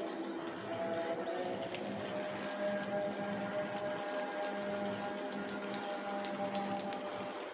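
Chicken kababs shallow-frying in a little oil in a frying pan: a steady, gentle sizzle with many small crackles, from oil that is only moderately hot.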